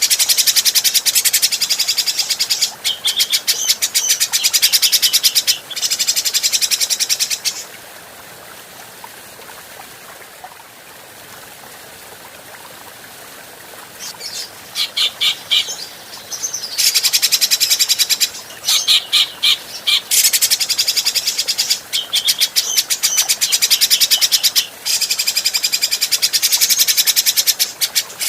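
Grey-cheeked bulbul (cucak jenggot) giving long bouts of fast chattering calls, with a gap of several seconds in the middle where only background hiss remains, then a few short broken calls before the chatter picks up again.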